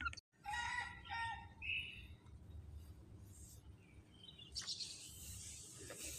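Faint black-naped oriole calls: a few short notes in the first two seconds, including a brief fluty whistle, then a soft rustling hiss about four and a half seconds in.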